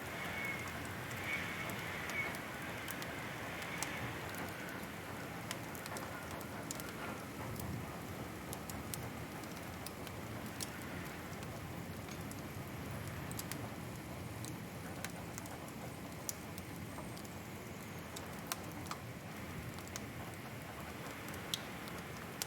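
Wood fire crackling: a steady low rush with irregular sharp pops and snaps scattered throughout.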